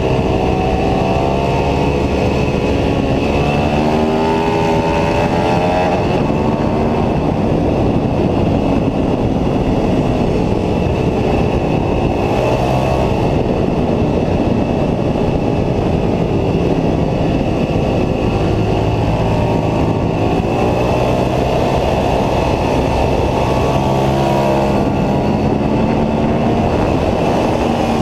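Ducati 749S superbike's L-twin engine running hard on track, heard onboard, its revs climbing and dropping again and again through the gears as the bike accelerates and slows.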